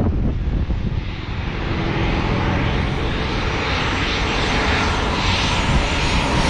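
Airplane engine noise, a loud steady rumble and hiss that builds slightly: an airplane running at power on or near the runway.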